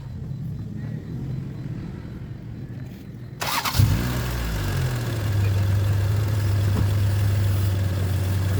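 Honda Civic Genio engine starting with a sudden burst about three and a half seconds in, after a low rumble, then settling into a steady idle.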